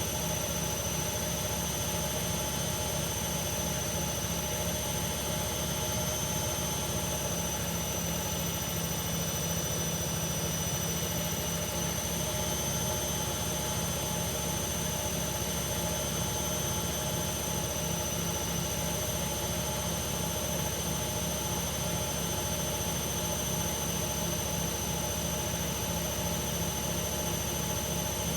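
Hoover Ecologic Computer Washer 1300 washing machine spinning at high speed: a steady, high-pitched motor whine over a constant rumble, holding an even pitch.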